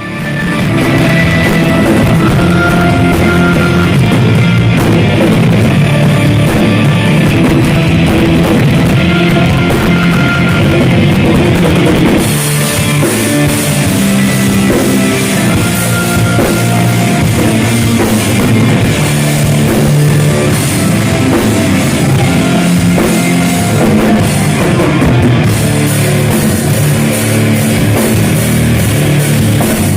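Heavy metal band playing live, with a pounding drum kit and electric guitars. The sound turns brighter and fuller about twelve seconds in and eases back near the end.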